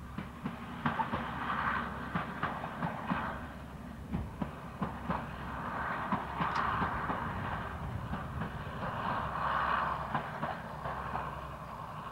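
Two-car first-generation diesel multiple unit running along the line, its underfloor diesel engines giving a low rumble and its wheels clicking over the rail joints. A rushing sound swells and fades every few seconds.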